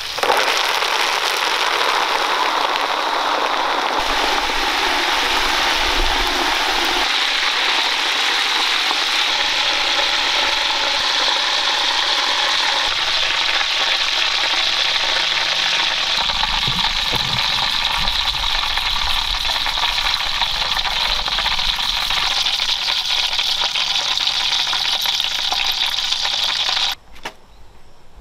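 Food deep-frying in a pan of hot oil: a loud, steady sizzle that cuts off suddenly near the end.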